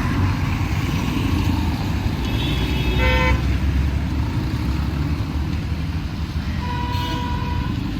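Busy road traffic running with a steady engine rumble, and vehicle horns honking: a short blast about three seconds in and a longer one of about a second near the end.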